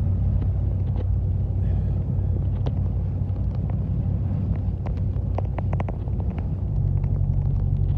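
Vehicle driving at highway speed, heard from inside the cab: a steady low engine and road rumble with scattered light ticks and a quick run of clicks about five to six seconds in. A second, higher hum joins near the end.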